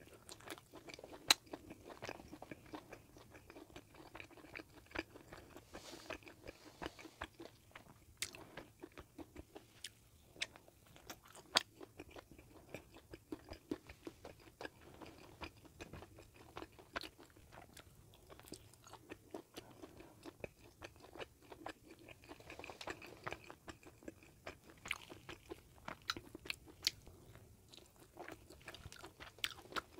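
Close-miked chewing and biting of a bagel sandwich with sausage and cheese: soft crunches and many sharp, irregular clicks, with a few louder bites.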